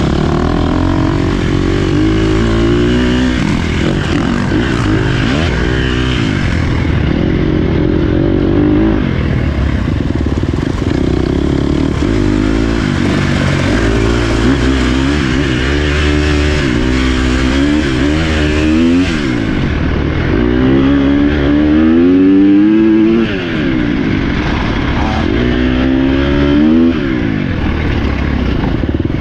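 Dirt bike engine being ridden along a trail, the throttle opened and rolled off over and over so the engine pitch rises and falls every second or few.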